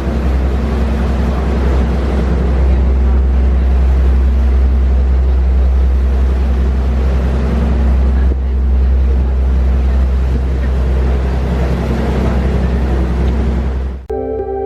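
Boat engine running at a steady drone, with wind and water rushing past; it cuts off just before the end as ambient music starts.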